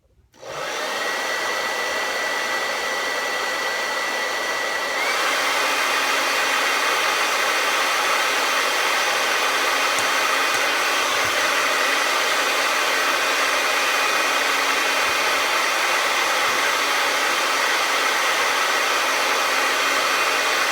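Hair dryer switched on and blowing steadily, a rushing of air with a thin whine over it. About five seconds in it steps up louder, the whine rising slightly, and then runs on evenly.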